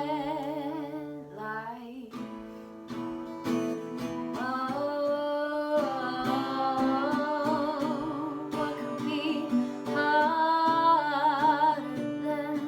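A singer holding long notes with vibrato over strummed acoustic guitar, the closing phrase of the song.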